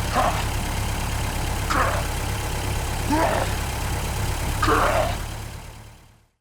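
Steady low engine hum of a mini tractor, with four short higher calls spaced about a second and a half apart; the hum fades out near the end.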